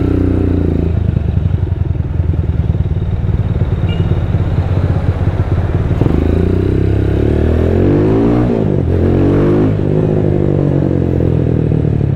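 Rusi Diablo 250cc motorcycle running through its custom-made Orion muffler, heard from on the bike. The engine note holds steady, then rises in pitch from about six seconds in, drops sharply a little past eight seconds and climbs again with the throttle.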